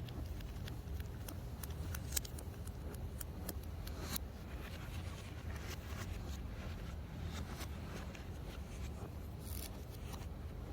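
Scattered small clicks and short scrapes of parts being handled during repair work, over a steady low hum, with a sharper click about two seconds in.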